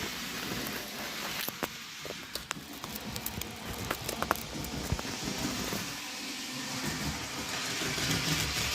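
HO scale model train running on the layout's track, a steady low motor running with scattered sharp clicks from the wheels on the rails. A hiss builds near the end.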